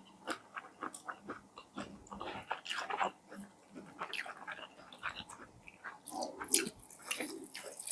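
Close-miked chewing and biting of KFC fried chicken: an irregular run of wet mouth clicks, smacks and crackles of the crispy coating. The loudest is a sharp snap about six and a half seconds in.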